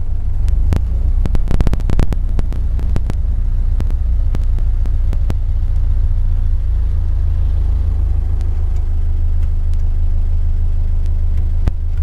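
Ford Model A four-cylinder flathead engine running at a slow, steady idle with a low rumble, on its first run after a new cylinder head and head gasket were fitted, as the car creeps backward. A quick run of sharp clicks and knocks comes in the first few seconds.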